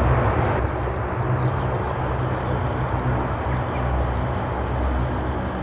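Aircraft engine noise at the airfield: a steady low rumble with a broad rushing hiss.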